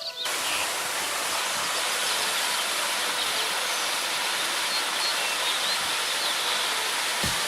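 Waterfall rushing steadily, a constant wash of falling water, with a few faint bird chirps over it.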